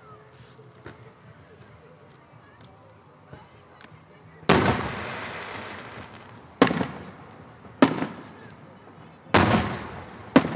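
Aerial firework shells bursting: four loud booms, the first about halfway in and the rest a second or two apart, each trailing off in a rolling echo. Before them, faint crickets chirp.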